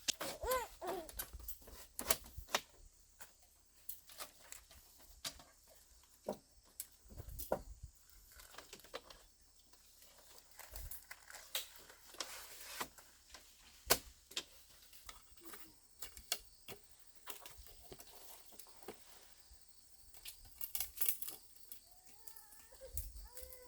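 Irregular light knocks, clicks and rustling, with a baby beginning to whimper near the end.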